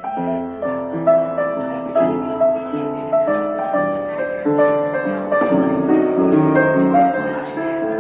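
Live jazz band playing, led by piano chords and melody, with light cymbal ticks above.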